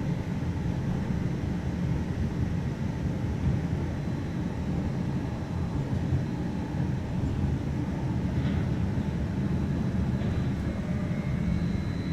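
Steady low rumble of a QLine Brookville Liberty streetcar running along its track, heard from inside the car. A faint high tone comes in near the end.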